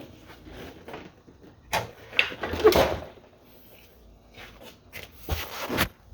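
A few separate metallic clunks and knocks of a motorcycle stand being taken away from the bike, the loudest near the middle; the engine is not yet running.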